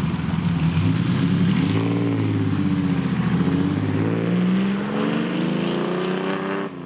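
A supercar's engine pulling through at low speed, its note dipping and then rising again, cut off abruptly near the end.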